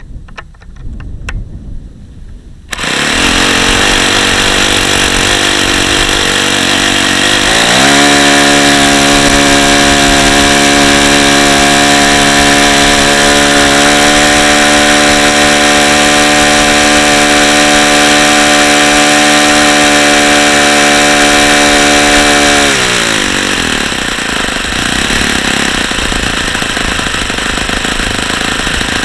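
Saito FA-45 four-stroke model glow engine running on a test stand. It picks up suddenly a few seconds in, then is throttled up to a steady high-RPM note that holds for about fifteen seconds before dropping back near the end. The owner takes the engine for simply worn out, with badly worn bearings and a top speed that sags as it gets hot.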